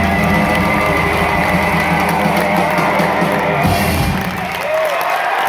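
A live blues-rock band rings out the final chord of a song over a cheering crowd with whoops. The band's sound stops about four and a half seconds in, and the cheering carries on.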